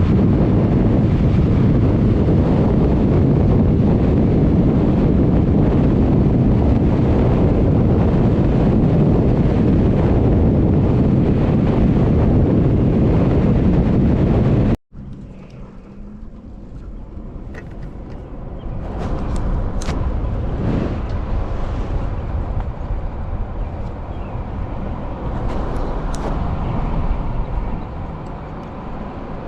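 Heavy wind noise buffeting the microphone, typical of riding at speed, then a sudden cut about halfway to quieter outdoor vehicle sound.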